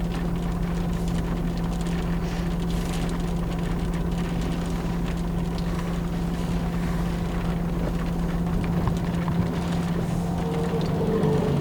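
Steady road and engine drone inside a moving car, a constant low hum with rumble underneath.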